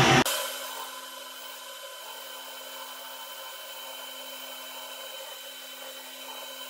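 Metal lathe running steadily with a faint whine. A louder noise stops abruptly just after the start.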